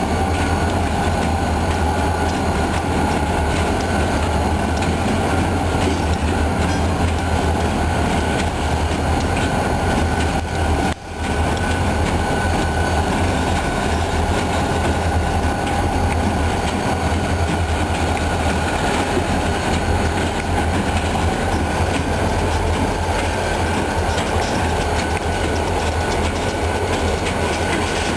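Freight train rolling past, its wheels clacking over the rail joints over a steady heavy rumble, with a thin steady squeal above it. The sound drops out briefly about eleven seconds in.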